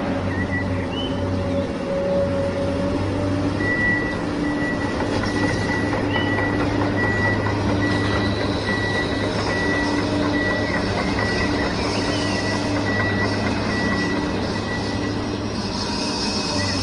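A vehicle engine running steadily. From about four seconds in, a high reversing beep repeats over it.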